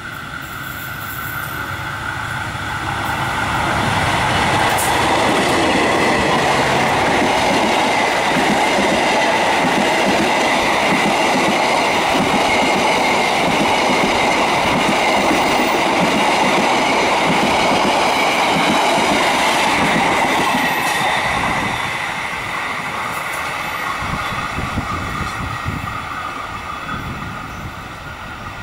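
Diesel-hauled passenger train passing close by: the locomotive grows louder over the first few seconds, then the coaches' wheels rumble and clatter over the rails, with a thin, high wheel squeal from the curved track. The sound drops off about 21 seconds in and fades as the train runs away.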